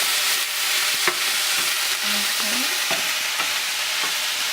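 Mushrooms, onions and bell peppers sautéing in oil at medium-high heat: a steady sizzle with a few sharp pops from water hitting the hot oil.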